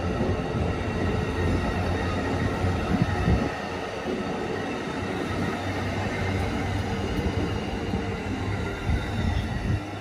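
Train rolling along the tracks: a steady rumble of wheels on rail, with a couple of louder knocks, one about three seconds in and one near the end.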